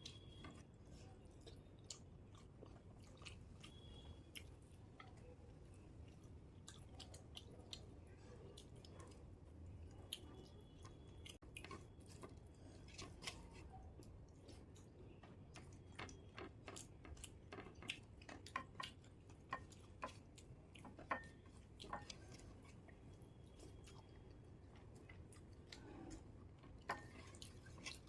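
Faint close-up eating sounds: soft chewing with scattered small mouth clicks and smacks, irregular and growing more frequent in the second half, over a low room hum.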